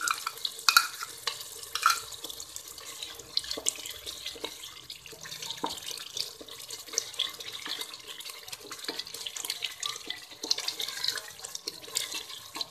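Onion and garlic paste frying in hot oil in a pan: a steady sizzle full of small crackles and pops, with a few sharper clicks near the start as a wooden spatula stirs it.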